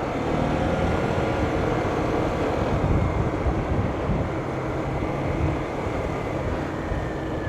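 A vehicle in motion on the road: steady engine and road rumble with some wind noise on the microphone.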